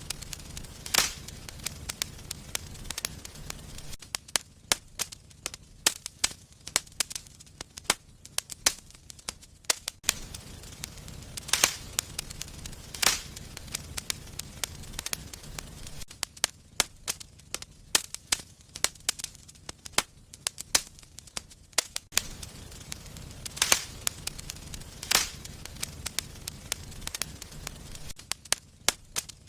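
Wood fire burning in a fireplace, crackling with frequent sharp pops and snaps at irregular intervals over a low rumble that comes and goes.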